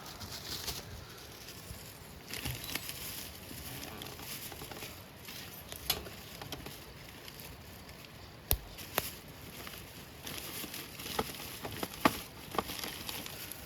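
Wood fire crackling, with a light hiss and scattered sharp pops, the loudest about two-thirds of the way through and near the end.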